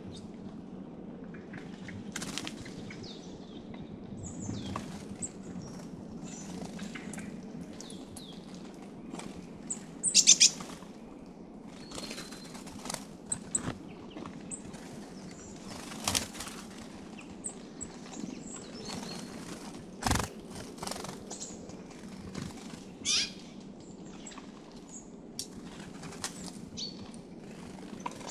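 Small songbirds chirping and calling in short, scattered high notes, with brief flurries of wingbeats as they fly in and squabble; the loudest flurry comes about ten seconds in.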